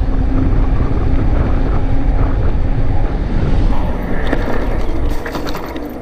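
Wind buffeting the microphone as an electric fat bike is ridden fast, over a faint steady hum. A few clicks or rattles come near the end, and the wind eases a little about five seconds in.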